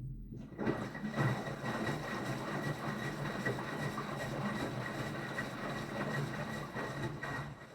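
V-Zug Adora V2000 washing machine running: a steady mechanical noise with a thin high whine that starts and cuts off suddenly.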